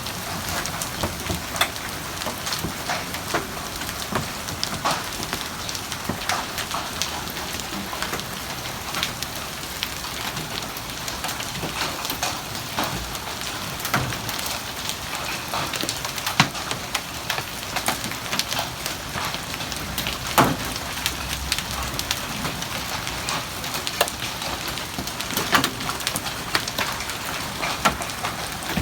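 Hailstorm: a steady hiss of heavy rain with many sharp, irregular clicks of hailstones striking.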